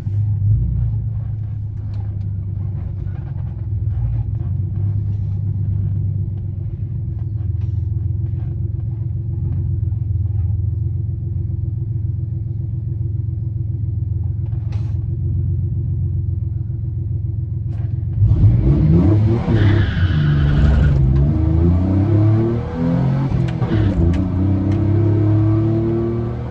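A 4.3-litre V6 in a five-speed manual pickup idling steadily with a low rumble, then, about 18 seconds in, launching at full throttle. The revs climb, drop at a gear change and climb again on the quarter-mile run.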